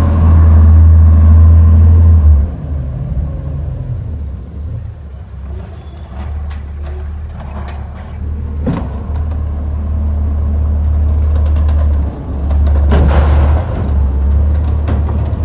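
Garbage truck's diesel engine running loud at first, easing to a lower rumble for several seconds with scattered knocks, then building up again; a short burst of noise comes about 13 seconds in.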